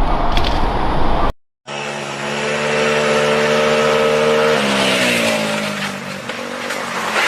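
A loud rushing rumble cut off abruptly by an edit, then a vehicle engine running at steady revs whose pitch drops a little past halfway as the revs fall, with a brief burst of noise near the end.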